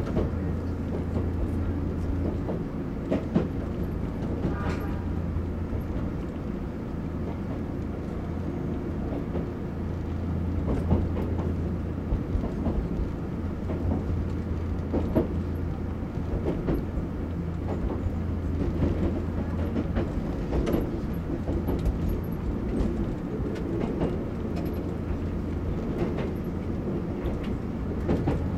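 Electric train running along the track, heard from the front of the train: a steady low hum with scattered clicks and knocks from the wheels on the rails, and a brief higher whine about five seconds in.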